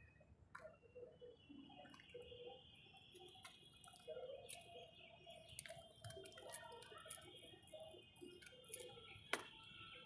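Very quiet scattered clicks and taps, with one sharp click about nine seconds in.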